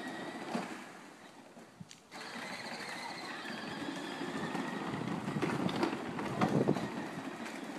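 Small vehicle running with a faint steady high whine over a noisy rumble; the sound drops away briefly about a second in, then carries on.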